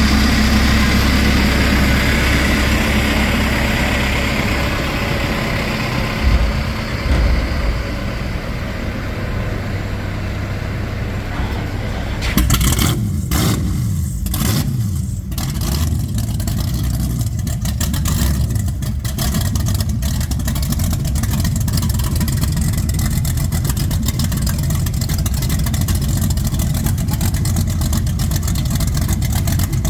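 An engine running with a steady low rumble, with a brief run of sharp crackles and knocks about halfway through.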